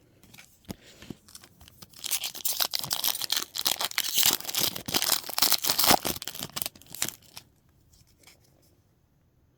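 Crinkling and tearing of a foil trading-card booster pack wrapper being ripped open and handled, a crackly rustle that starts about two seconds in and stops about a second and a half before the end, after a few light clicks.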